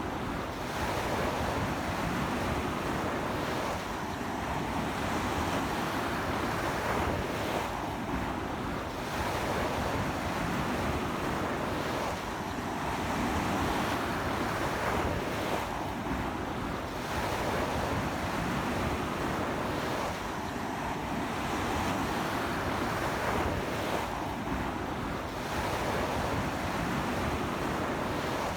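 Sea waves breaking and washing onto a beach in a strong onshore wind, a steady surf noise that swells gently about every four seconds, with wind buffeting the microphone.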